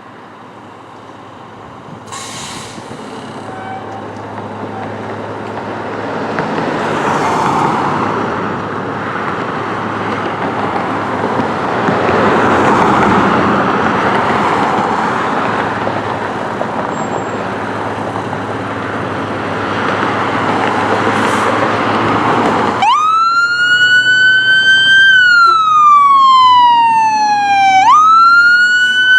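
Fire engine approaching: rumble and road noise growing steadily louder. Near the end its electronic siren comes on in a wail, the pitch climbing, then sliding slowly down and climbing again.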